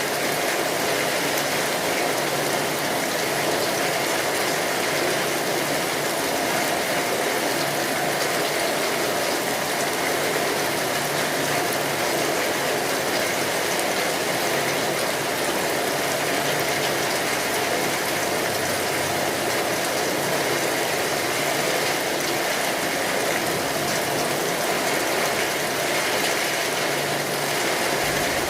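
Steady rain drumming on a tin roof, an even patter with no let-up, mixed with the small clicks of a wood fire crackling.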